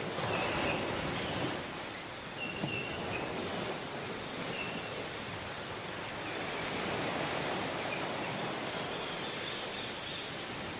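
Waves washing onto a tropical beach: a steady surf hiss that swells and eases over a few seconds. Faint short high chirps come through it now and then, about half a dozen times.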